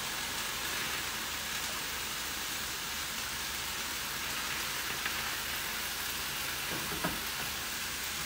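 Steady sizzle of food frying on a gas hob: quinoa with hot stock just ladled in, stirred with a silicone spatula, and mushrooms browning in a pan beside it. A couple of light spatula taps come about halfway and near the end.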